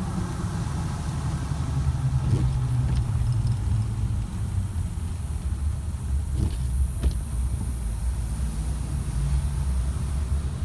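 Car engine running with a steady low rumble, with a few faint ticks over it.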